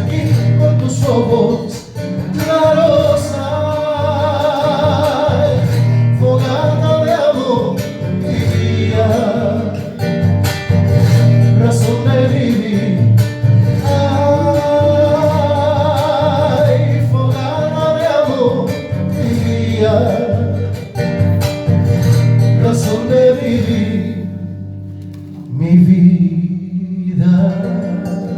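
A song with a voice singing long, wavering held notes over guitar accompaniment. Near the end the voice drops away and a strummed acoustic guitar comes back in.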